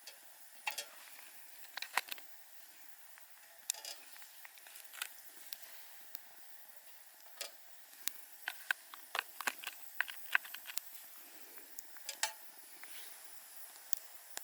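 Faint, irregular clicks and light taps over a low hiss, most of them bunched together about eight to eleven seconds in.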